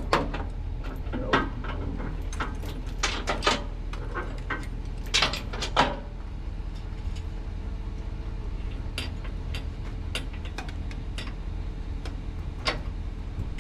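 Scattered metallic clicks and clinks from hands-on work, thickest in the first six seconds and sparser after, over a steady low engine hum.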